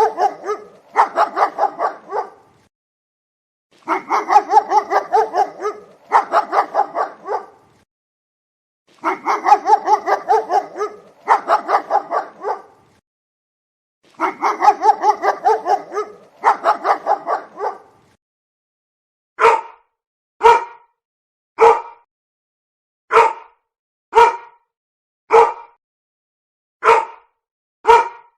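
Dogs barking. For about the first 18 seconds it comes in pairs of quick strings of barks, each string about a second long. After that it changes to single sharp barks, about one a second.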